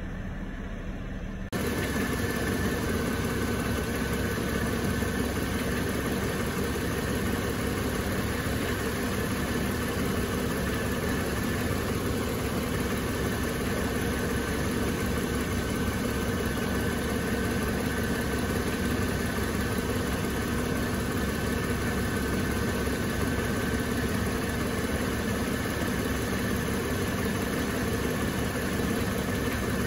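Mercedes C230's engine idling steadily while the 722.9 automatic transmission fluid warms up to 45 °C for the level check. Heard first faintly from inside the cabin, then louder from beneath the car from about a second and a half in.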